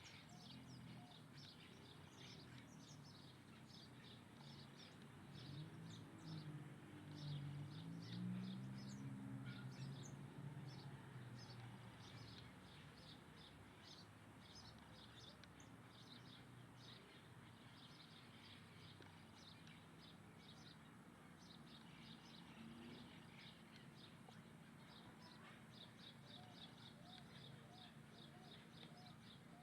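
A flock of small birds chirping faintly, a dense run of short, high, quick chirps overlapping one another. A low murmur swells from about six to eleven seconds in.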